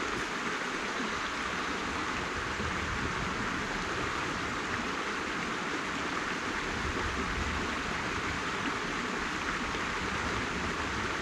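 Steady rush of flowing water, as from a stream or small waterfall, holding an even level throughout.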